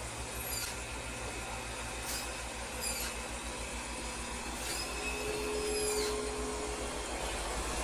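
Heavy vehicle engine running steadily with an even low pulse, and a few short high squeaks, the longest a little past the middle.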